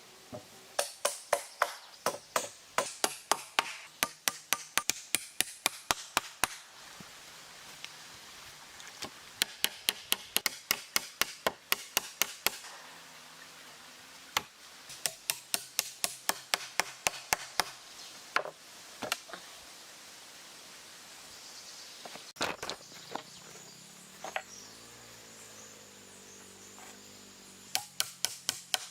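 A hammer driving nails into wood, struck rapidly at about four blows a second in runs of several seconds, with short pauses between the runs.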